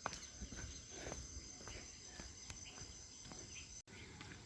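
Faint, steady, high-pitched insect chirring in the background, with soft scattered ticks. The sound drops out for an instant near the end.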